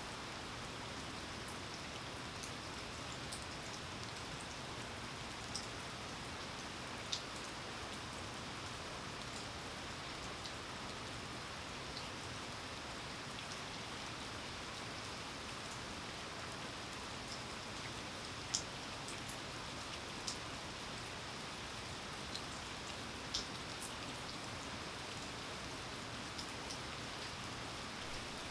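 Steady rain falling, a continuous even hiss with a few louder single drops ticking here and there.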